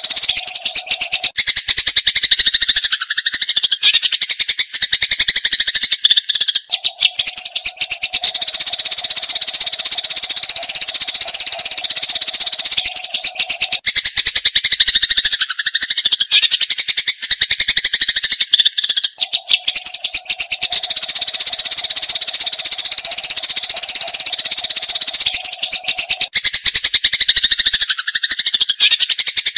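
Eurasian tree sparrows chattering in a rapid, continuous stream of high chirps, the agitated calling of sparrows fighting. A steady low hum comes and goes under it.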